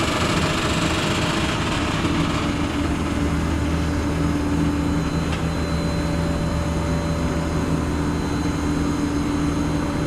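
Truck engine running steadily under way, heard from inside the cab, with an even hum of level tones and road noise.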